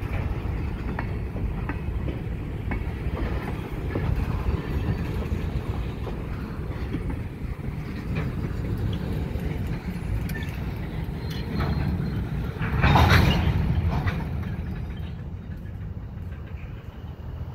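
Freight cars (covered hoppers and tank cars) rolling slowly along the track: a steady low rumble with scattered wheel clicks. About thirteen seconds in there is a louder burst of noise lasting about a second, then the rumble fades.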